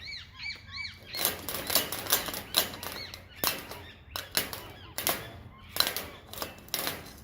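A run of sharp, irregular clicks and taps, with a quick series of high, repeated chirps in the first second.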